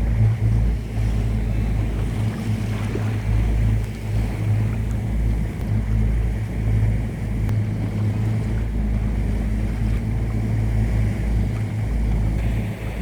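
Motorboat engine running steadily with a low, even hum, mixed with wind buffeting the microphone and water noise.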